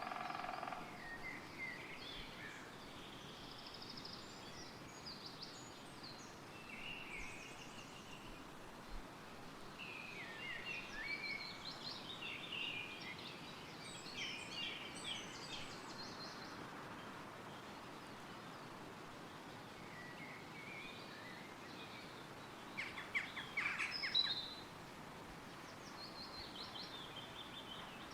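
Woodland birds singing and calling in scattered short phrases over a steady rustle of wind in the trees, with a louder run of rapid notes near the end.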